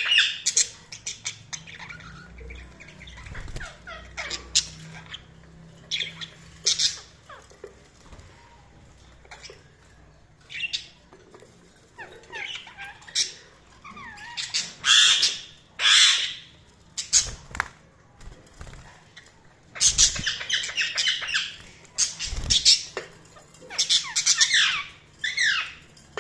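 Budgerigars chirping and squawking in irregular bursts, with quieter gaps between, and a few short low thumps.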